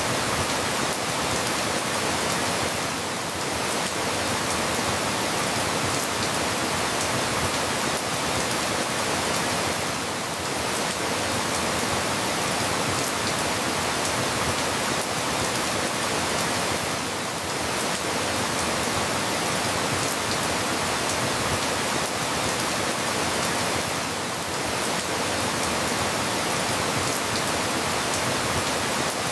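Steady rain falling: an even hiss with scattered faint drop ticks, dipping slightly in level about every seven seconds.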